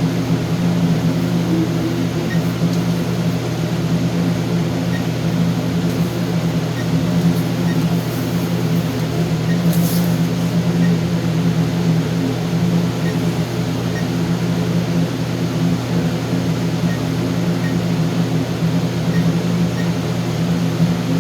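Steady low mechanical hum, with faint short high beeps every second or so.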